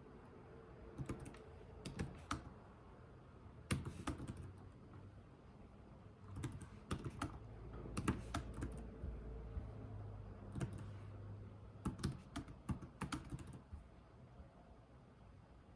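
Computer keyboard typed slowly, keystrokes coming in short clusters with pauses between them.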